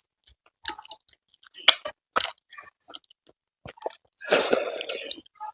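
A person chewing food close to the microphone, with short wet clicks and crunches, and a longer wet squelching stretch about four seconds in.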